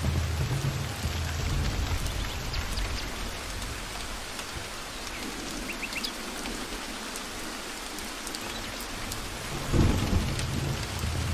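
Steady rain with rolling thunder. The low rumble dies away in the middle, then swells again about ten seconds in.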